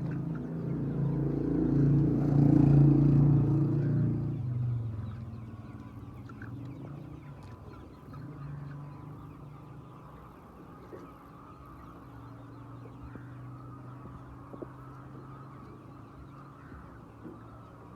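A motor's pitched hum swells to a peak and fades over the first few seconds. After that a quieter steady hum carries on under the clucking of chickens in a poultry house.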